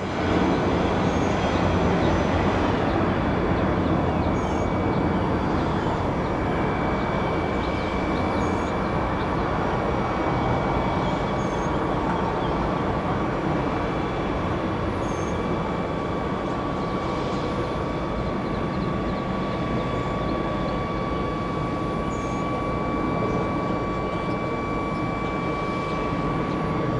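Boeing 717-200 airliner arriving, its twin rear-mounted Rolls-Royce BR715 turbofans running with a steady rushing roar and a thin high whine laid over it.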